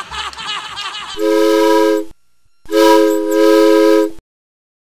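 Two blasts of a chime train whistle, each a chord of several notes: a first blast about a second long, then after a short pause a longer one of about a second and a half that cuts off abruptly. The last moment of a song's music comes before them.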